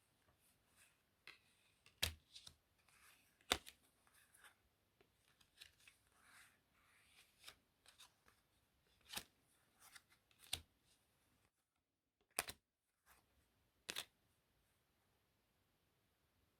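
Playing cards being handled: soft rustling and sliding of cards with about six sharp clicks spread through.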